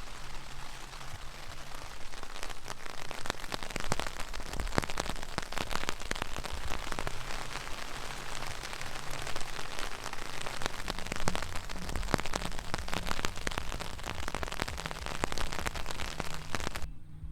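Steady rain, with many close raindrops pattering sharply on a surface. It cuts off suddenly near the end.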